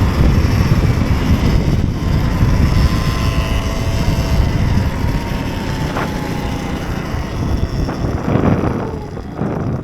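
Riding noise from a Surron Ultra Bee electric dirt bike: wind buffeting the camera microphone as a steady rumble, with a faint electric-motor whine slowly falling in pitch and a single sharp click about six seconds in.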